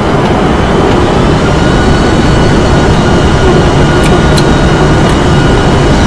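Aircraft engine running: a loud, steady rumble with a thin, steady high whine over it.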